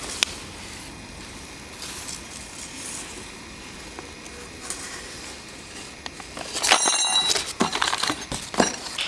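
Plastic bag and packaging being handled: a few faint clicks, then louder crinkling, rustling and light clinks in the last couple of seconds.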